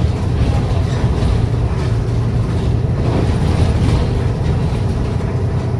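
Bus interior noise: a steady low engine hum with road noise while the bus runs.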